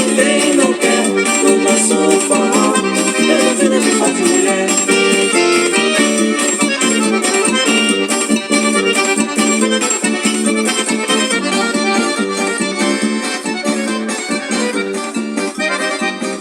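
Instrumental break of a forró song: accordion playing the melody over a steady percussion beat, slowly fading out near the end.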